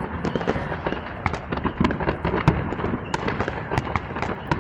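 Many fireworks going off at once: a dense, irregular crackle of pops and bangs, near and far, with a louder bang about halfway through.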